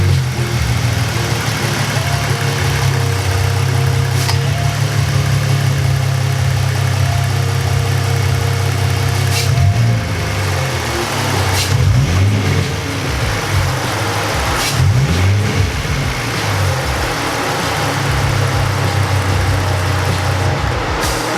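Ford Mustang V6 engine heard at its stock factory air intake, idling steadily, then revved in several short blips about halfway through before settling back to idle.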